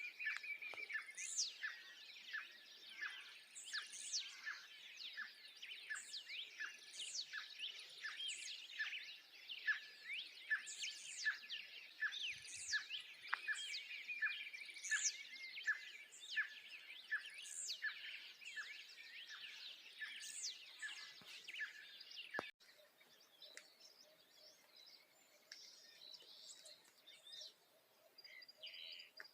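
Many birds chirping and singing, with a high call that falls in pitch repeated every second or two. It cuts off abruptly about three-quarters of the way through, leaving fainter scattered chirps over a low steady hum.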